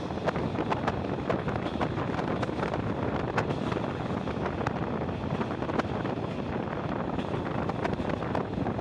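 Passenger train running along the track, heard at an open carriage window: a steady rush of wind on the microphone over the rumble of the wheels, with frequent sharp, irregular clicks and rattles from wheels and coach.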